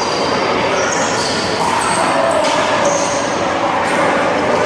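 Sharp smacks of a rubber handball struck by hand and hitting the wall and ground during a one-wall handball rally, a few strikes over a steady hiss of background noise.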